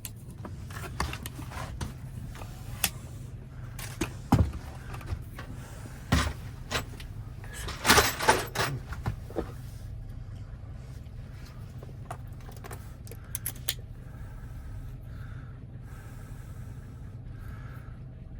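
Scattered sharp clicks and taps of small metal lock parts being handled, with a quick cluster of rattling clicks about eight seconds in, over a steady low hum.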